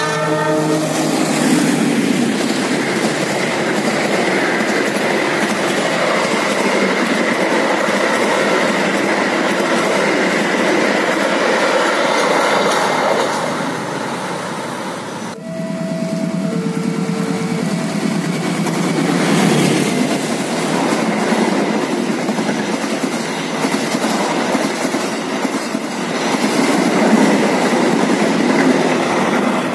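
Diesel locomotive-hauled passenger trains passing at speed close by, a steady loud rumble of wheels on the rails. About halfway through, the sound breaks off suddenly and a second train takes over, with two short steady tones sounding just after the break.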